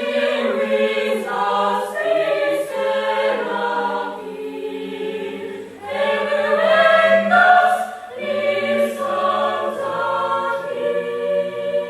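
An a cappella vocal group sings sustained chords in close harmony, in phrases that break about every two seconds. A low bass voice joins under the chords in the second half, and the phrases fade out near the end.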